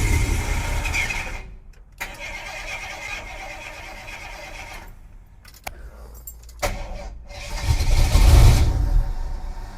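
A 1976 Jeep J10's AMC 401 V8 being cranked by its starter in a first start attempt after sitting 29 years, primed with fuel poured into the carburetor. It cranks in two bursts, with sharp clicks from the ignition switch in between; the second burst is the loudest.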